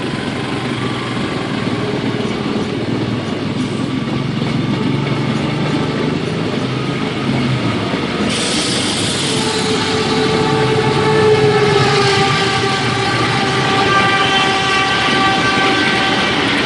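Train running along the track with a steady rumble. About eight seconds in, a hiss comes in, and then several long held tones sound over the rumble until the end.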